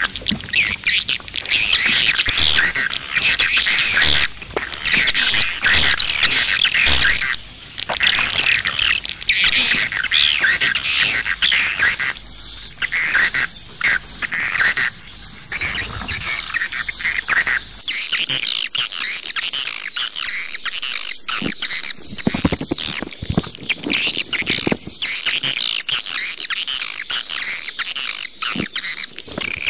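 Swiftlet calls: a dense chorus of rapid, high twittering chirps that thins to sparser, separate chirps after about twelve seconds.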